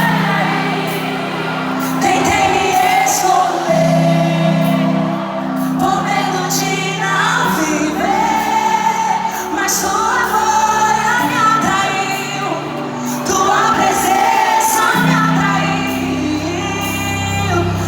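Live worship song: a female lead singer with a band, sung melody over sustained bass notes that change every few seconds.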